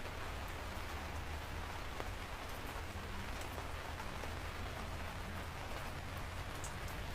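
Steady rain falling, a continuous hiss with scattered individual drops ticking, over a low rumble.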